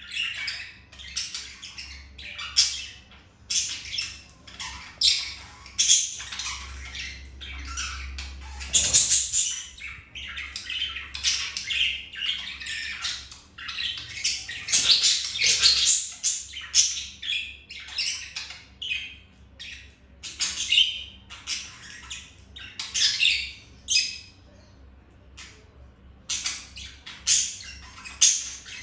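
Budgerigars chattering and chirping almost continuously, a quick run of short, high, scratchy calls with brief pauses.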